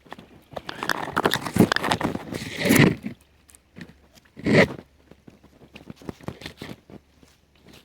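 Dry twigs and brush crunching and snapping as they are handled, a dense run of cracks for about three seconds, then one louder crunch about four and a half seconds in and a few light clicks after.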